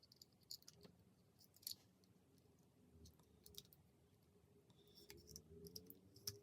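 Faint, scattered clicks and light scrapes of small plastic and metal iPod nano 5th-generation parts being fitted into the housing by hand; otherwise near silence.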